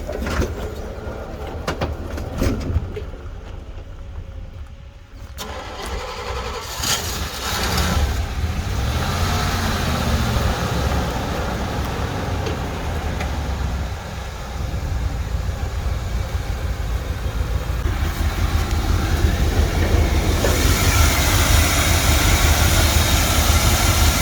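A truck engine starting and then running, the revs rising briefly, and running louder near the end.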